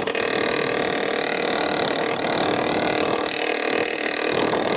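Motorcycle engine running steadily, its note holding a constant pitch.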